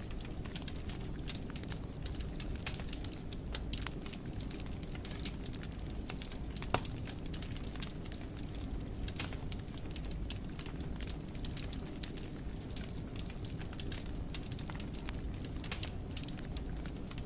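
Fire in a fireplace crackling: irregular sharp pops and snaps, several a second, over a steady low rumble of the flames, with one louder pop about seven seconds in.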